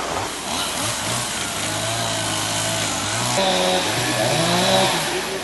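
A small engine running, its pitch shifting up and down as the throttle changes.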